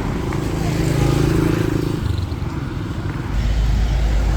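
Road traffic with a motor vehicle engine running close by: a steady low rumble, with one engine's note standing out for a second or two near the start.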